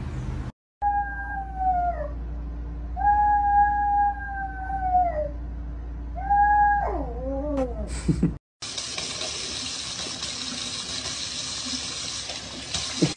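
A dog howling three times: long, steady notes, each sliding down in pitch as it ends, the last one dropping furthest. After that a steady hiss.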